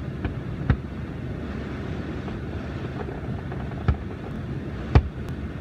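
Fireworks shells bursting in the distance: three sharp bangs, the loudest about five seconds in, with a few fainter pops between, over a steady low rumble.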